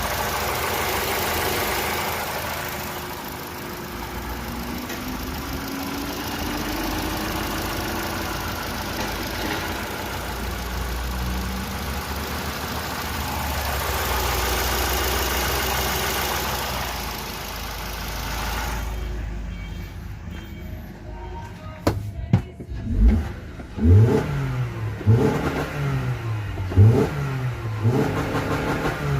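2019 Toyota RAV4 2.0-litre four-cylinder petrol engine running under a steady hiss. About two-thirds of the way through it is revved in repeated quick blips, its pitch rising and falling roughly once a second.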